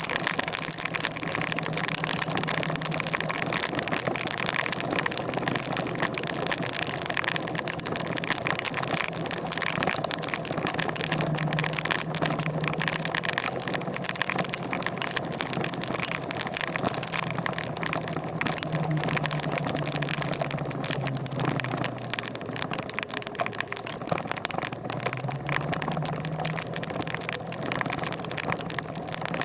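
Steady rain noise over the low, even hum of an idling engine.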